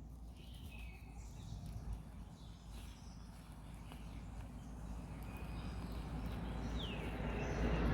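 Quiet outdoor ambience with a few faint bird chirps and one short falling call about seven seconds in, over a low rushing noise that grows louder toward the end.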